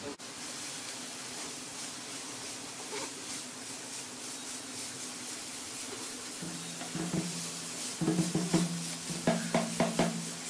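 Grated carrot sizzling in hot fat in a nonstick frying pan, with a wooden spatula stirring and scraping it from about halfway. Background music comes in after about six seconds.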